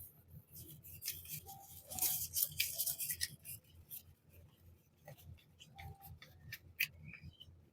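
Packaging being handled and unwrapped: a thick crinkling rustle with sharp clicks for the first few seconds, then scattered single clicks and taps.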